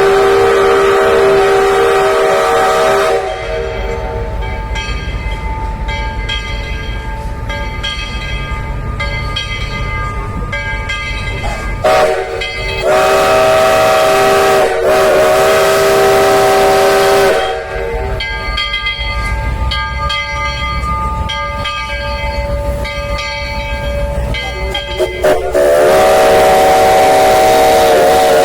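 Mallet 204 2-6-6-2 steam locomotive's chime whistle sounding three long chord blasts: one at the start, one from about 13 to 17 seconds, and one from about 26 seconds on. Between the blasts the locomotive runs with a steady low pulsing rumble.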